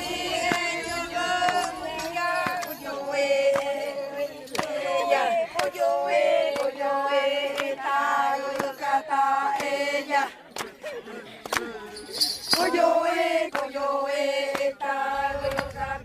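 Voices chanting in a repeating melodic phrase of held notes, breaking off briefly about two-thirds of the way through before starting again.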